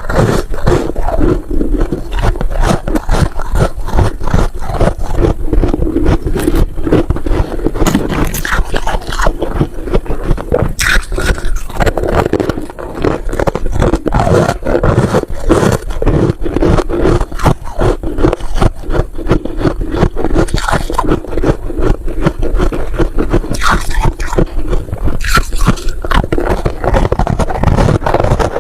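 Freezer frost being chewed close to the microphone: a dense, continuous crunching made of many small cracks and crackles.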